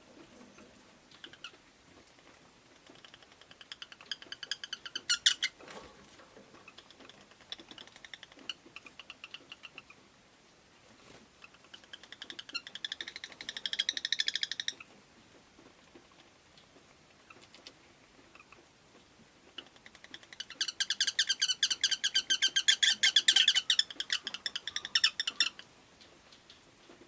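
Rosy-faced lovebird chattering in bursts of rapid, high chirps. The longest and loudest run comes about two-thirds of the way through and lasts about five seconds.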